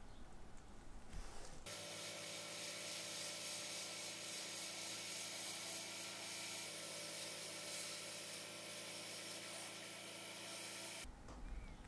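Pencil-nozzle sandblaster in a blasting cabinet blasting a watch bezel to strip its damaged black paint: a steady hiss of air and abrasive over a steady hum. It starts suddenly about two seconds in and cuts off near the end.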